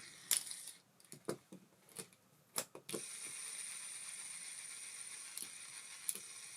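ABU Ambassadeur 2500C De Luxe baitcasting reel being worked: a string of sharp mechanical clicks, then the tuned spool spinning freely with a steady high whirr, broken by a couple of single clicks.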